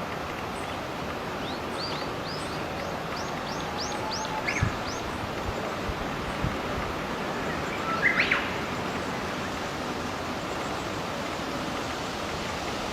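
Small birds calling outdoors: a quick run of short, high chirps a couple of seconds in, then two brief louder calls, one about halfway and one later, over a steady background hiss.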